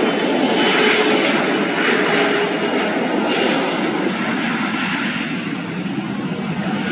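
Airliner engines passing, a loud steady rushing noise that eases slightly over the last couple of seconds.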